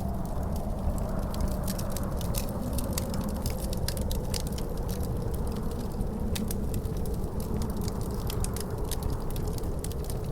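Wood fire crackling in a fireplace, with frequent sharp pops and snaps, over a steady low rumble of wind and a faint howling wind tone that slowly falls and rises.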